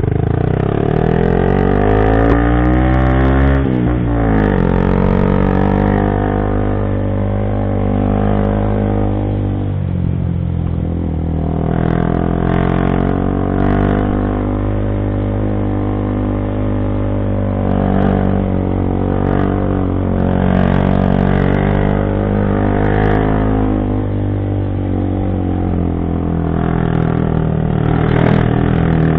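Motorcycle engine pulling under load up a steep climb. The revs rise over the first few seconds and drop sharply about four seconds in, then hold fairly steady with small rises and dips.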